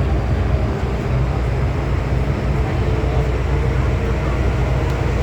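MTR M-Train electric multiple unit running at speed between stations, heard from inside the car: a steady loud rumble of wheels on track, with a faint steady hum over it.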